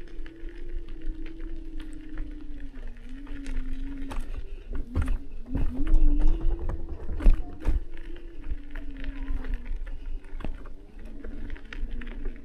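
Electric scooter motor whining at a steady pitch that sags and rises a little with speed, over a low rumble. A few louder knocks and thumps come about halfway through.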